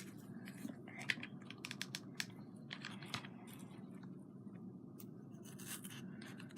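Faint, irregular small clicks and taps of craft materials being handled, with a rustle now and then, over a steady low room hum.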